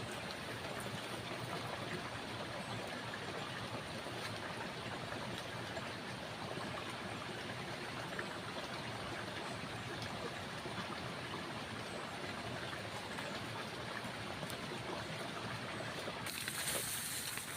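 Steady rushing of flowing water, even and unbroken, with a brighter hiss near the end.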